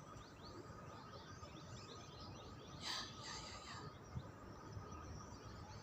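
Faint chatter of a flock of birds: many short, overlapping chirps, with a brief hiss about three seconds in.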